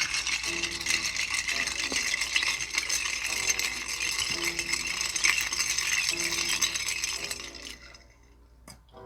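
Crinkling and rustling of food packaging handled close to the microphone, stopping near the end, over soft background music.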